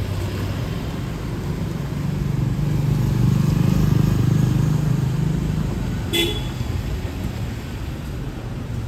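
City street traffic: a motor vehicle's engine passes close, swelling and then fading, and a single short horn beep sounds about six seconds in.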